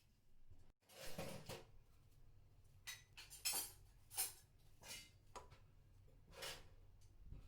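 Faint clinks and knocks of small objects being handled, a handful of separate light strikes spaced roughly a second apart, like dishes and cutlery being moved.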